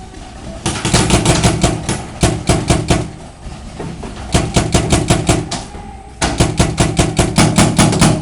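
Paintball marker firing rapid strings of shots, about seven or eight sharp pops a second, in three bursts: a long one starting under a second in, a short one just past the middle, and another running to the end.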